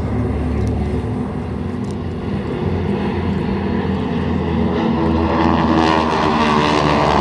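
Formation of North American SNJ propeller planes flying past, their radial engines droning together and getting louder from about five seconds in.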